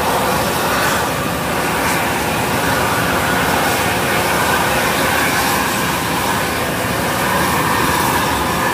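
Steady, loud mechanical drone that runs on without a break.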